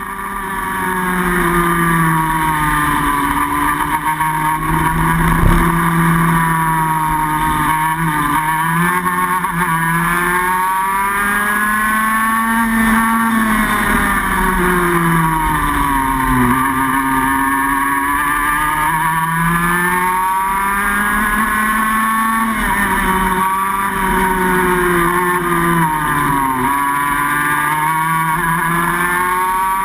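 TKM kart's two-stroke single-cylinder engine at racing speed, its pitch climbing along the straights and dropping into the corners over and over without cutting out. There is a single brief knock about five seconds in.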